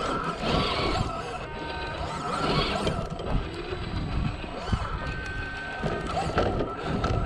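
Traxxas TRX-4 RC crawler's motor and gears whining in short spells, with irregular knocks and scrapes of the tyres and chassis on rock.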